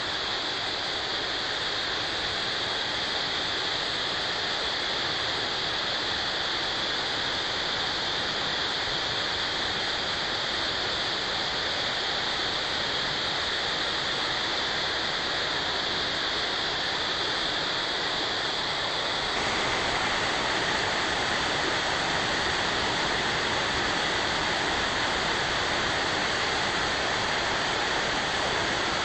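Spring-fed waterfall, groundwater gushing out of a rock face, making a steady rush of falling water. Its sound shifts slightly and abruptly about two-thirds of the way through.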